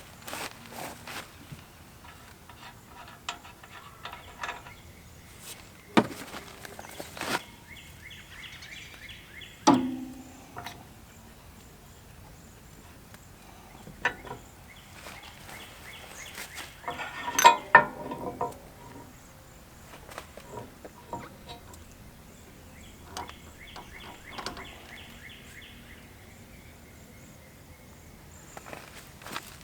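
Scattered metal clanks and knocks from parts and tools being handled while shafts are pulled out of an implement, the loudest about 6, 10 and 17.5 seconds in. Several short runs of rapid, high chirping come and go in the background.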